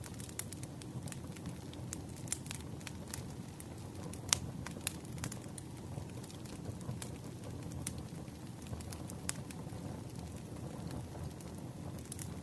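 Crackling campfire: irregular sharp pops and snaps of burning wood over a low, steady rumble, with one louder pop about four seconds in.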